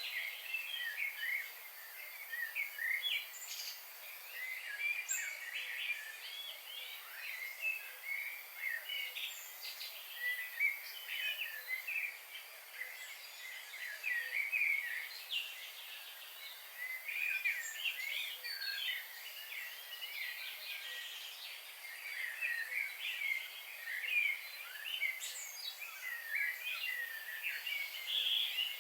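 A chorus of several birds singing together: a dense, unbroken stream of short, high chirps and quick whistled notes overlapping one another.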